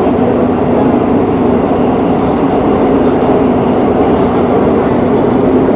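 Metro de Madrid series 8000 train running between stations, heard from inside the car: a steady, loud rumble of wheels on rail and traction noise.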